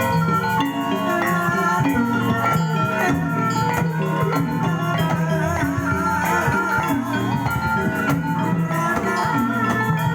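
Live Javanese ebeg dance accompaniment: a gamelan-style ensemble of tuned metal or bamboo percussion, drums and shaken rattles playing a dense, repeating pattern. A wavering high melody joins about halfway through.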